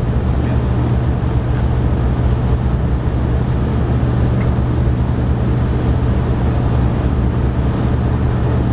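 A steady low mechanical hum, unchanging in level and pitch.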